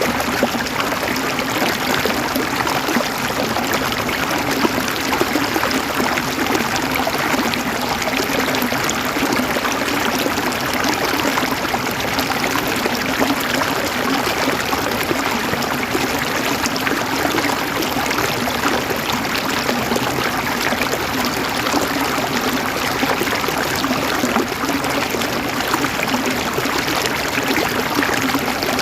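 Flowing water of a stream, a steady, unbroken rush and trickle.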